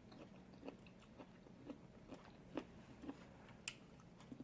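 Faint chewing of snow crab legs, with several small scattered clicks and crunches from the meat and shell.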